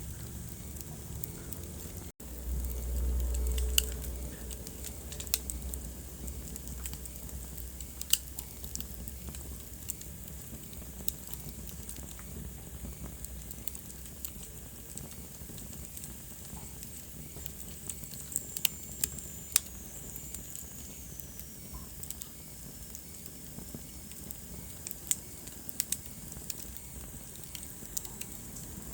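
Wood fire burning in a fireplace, crackling with sharp irregular pops over a steady hiss. A low rumble swells for about two seconds near the start, and a faint high whistle slides down in pitch in the second half.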